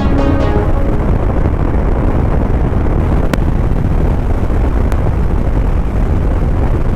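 Suzuki motorcycle under way at road speed: a steady low rumble of wind on the microphone mixed with engine and tyre noise. Background music fades out in the first half second, and two short clicks come about three and five seconds in.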